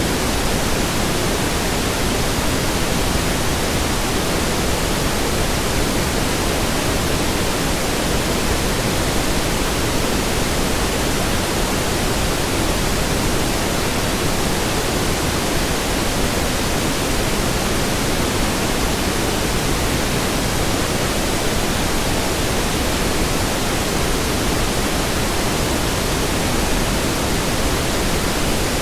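Steady pink noise: an even, unbroken hiss, fuller in the low end than white noise.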